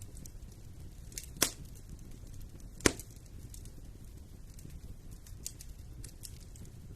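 Wood fire in a fireplace crackling over a low, steady rumble, with two sharp, loud pops about a second and a half apart near the start.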